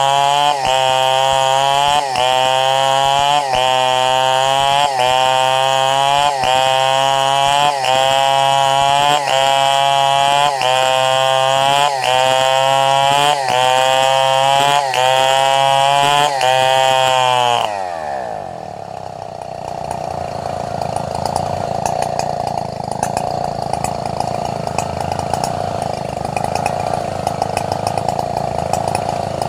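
Two-stroke chainsaw running at full throttle while sawing durian wood into planks, its pitch dipping slightly about every three-quarters of a second. About two-thirds of the way through, the throttle is let off and the engine drops to a lower, quieter running speed.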